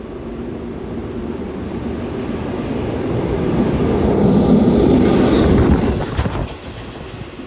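Train passing through a station: its rumble builds steadily, is loudest about four to five seconds in, then eases off, with a few sharp clicks of wheels over the rail joints near the end.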